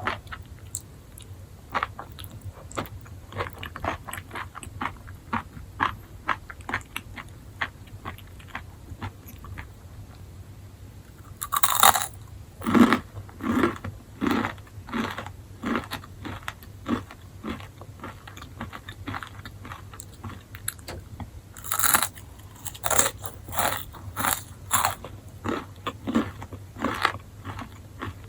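Enoki mushrooms being chewed close to the microphone: a steady run of small wet chewing clicks, then two louder crunchy bites, one about halfway through and one later on, each followed by several seconds of rhythmic chewing at about two chews a second. A faint low hum runs underneath.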